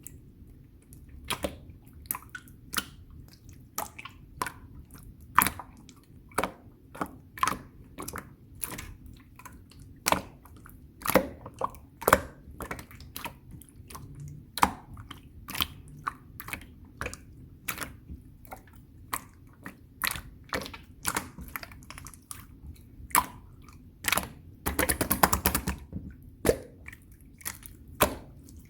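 Clear slime squeezed and pressed by hand, making irregular sharp, wet clicks and pops, with a dense run of rapid crackling near the end.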